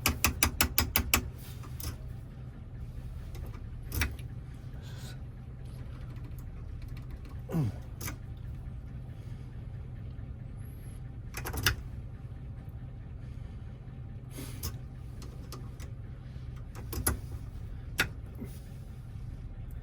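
A key is pushed into a Toyota door lock cylinder, giving a quick run of about eight clicks as it rides over the wafers. After that come scattered single clicks and taps as the lock is handled, over a steady low hum.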